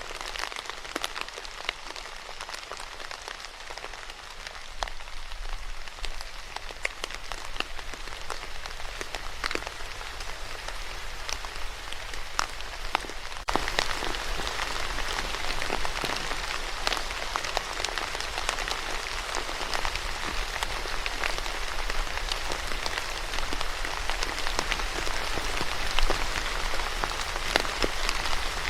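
Steady rain falling on a surface, with individual drops ticking through the hiss; it turns suddenly louder and denser about halfway through.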